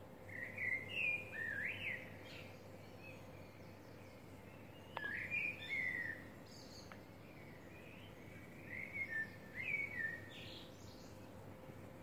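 Songbird singing outdoors in early morning: three separate warbling phrases, each about a second and a half long, a few seconds apart. They sit over a faint steady background hum.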